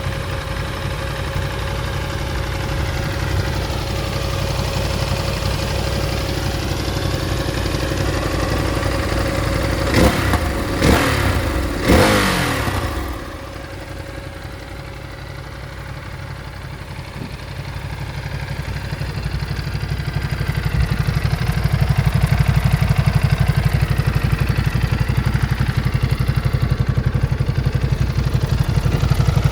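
Ducati Desert X's 937 cc V-twin idling with a steady low beat, revved in three quick throttle blips about a third of the way in. The idle dips quieter after the blips, then grows louder again through the second half.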